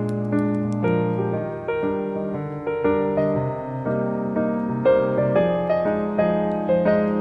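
Background piano music: a gentle melody of sustained notes over a repeated low bass note.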